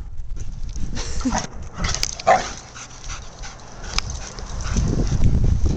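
German Shepherd giving short whining yips, one about a second in and a louder one a little after two seconds, over low rustling noise.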